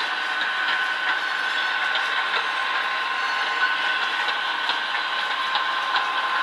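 HO-scale model train running, with its Tsunami and Soundcar digital sound playing through small onboard speakers. It is a steady running sound with two steady high tones and irregular light clicks throughout.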